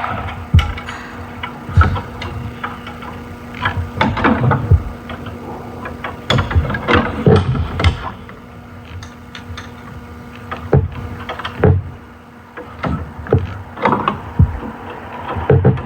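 Hand tools and metal parts knocking and clicking, irregular and scattered, over a faint steady hum.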